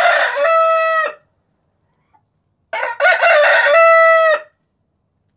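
Rooster crowing twice: the tail of one crow ends about a second in, and a second full crow comes a little under three seconds in. Each crow starts rough and finishes on a long held note.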